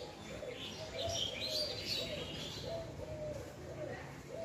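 Birds calling: a repeated series of short, low, arching notes, about two a second, with higher chirping over them in the first couple of seconds.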